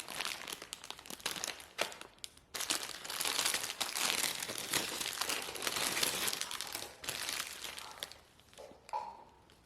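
Packaging crinkling and rustling as it is handled, a dense run of small crackles that is busiest in the middle and thins out near the end.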